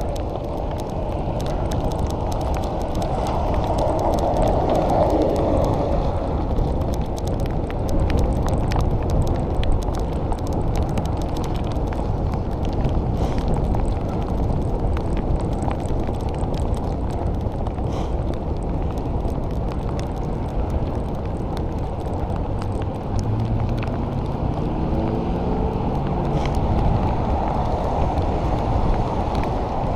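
Steady rush of wind over the microphone and tyre noise from a bicycle being ridden on wet road in the rain. Near the end a pitched hum rises.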